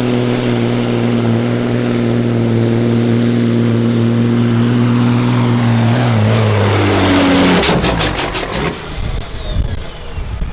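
Semi truck's diesel engine running hard under load with a high turbo whistle. About six seconds in the engine note drops, there is a loud rush and a quick run of sharp pops or hisses, and the turbo whistle winds down as the engine goes quiet.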